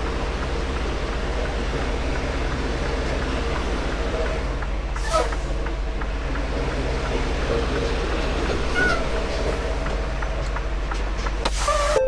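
Semi-truck's diesel engine running steadily while the truck is maneuvered slowly into a parking spot. A short squeal about five seconds in and another brief one near nine seconds.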